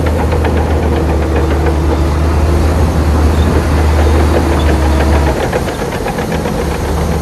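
Bulldozer's diesel engine running with a deep drone and a quick metallic clatter; the deep note drops away about five seconds in as the engine eases off.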